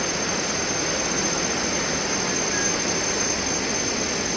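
Thomson's Falls, a 74-metre waterfall, sounding as a steady, even rush of falling water.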